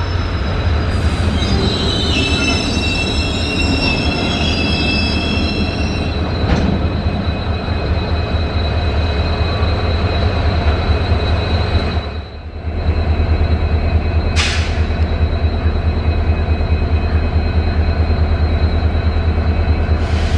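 Train running past on the track, a steady loud rumble, with high-pitched squealing of wheels against the rails over the first few seconds. The sound drops briefly about twelve seconds in, then the rumble carries on.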